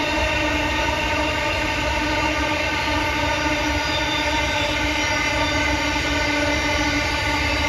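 Railway locomotive engine running at a steady pitch with a low rumble under it, as a train works along the line. Neither pitch nor loudness changes.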